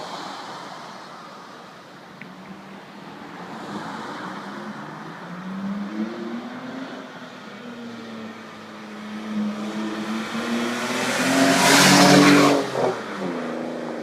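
BMW E46 with a Corsa aftermarket exhaust under acceleration, the exhaust note climbing in pitch and loudness, with a brief dip about 6 s in. It is loudest about 11 to 12 seconds in, then drops away as the throttle comes off.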